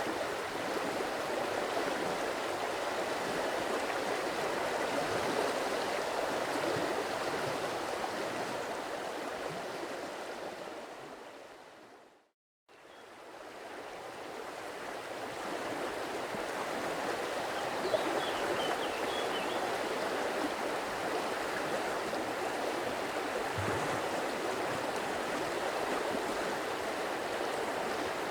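Water of a stream flowing and burbling steadily. About twelve seconds in it fades out to silence, then fades back in.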